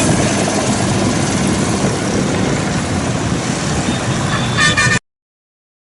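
Steady, loud rumble of engines and traffic noise, with a brief horn-like tone near the end; the sound cuts off abruptly about five seconds in.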